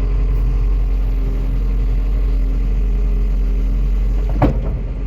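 Engine running steadily with a low, even hum, and a single short knock or clunk about four and a half seconds in.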